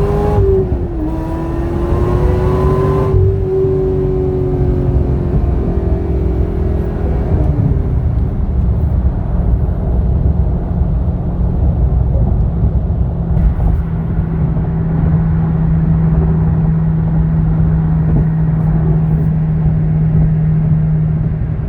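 Corvette ZR1's supercharged 6.2-litre LS9 V8 at full throttle, revving up with a gear change about a second in. About three seconds in the throttle comes off and the engine note falls, settling into a steady cruise.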